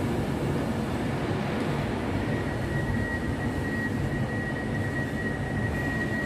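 Train running at a station platform with a steady rumble, joined about two seconds in by a thin, steady high-pitched squeal.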